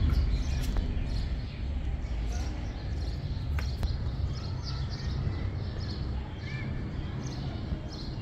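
Small birds chirping now and then over a low, steady rumble.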